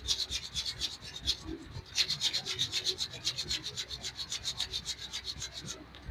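Hands rubbing oiled skin in a quick, rhythmic leg massage, several strokes a second, with a short pause a little over a second in.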